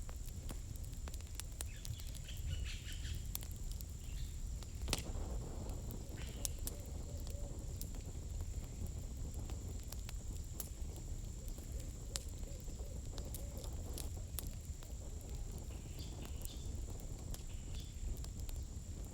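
Wood campfire crackling, with irregular sharp pops and snaps over a low steady rumble of burning; one louder pop comes about five seconds in.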